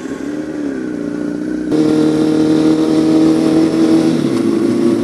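Sport motorcycle engine running on the move; a little under two seconds in it gets suddenly louder as the throttle opens, then holds a steady pitch.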